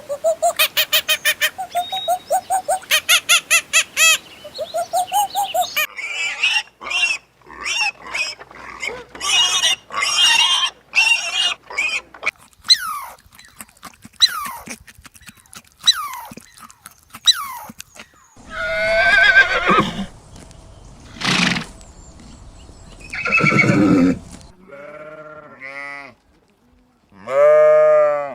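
Calls of several different farm animals heard one after another. First comes a fast run of short pulsed calls, then many short chirps, and from about two-thirds of the way in, longer drawn-out calls with a wavering pitch.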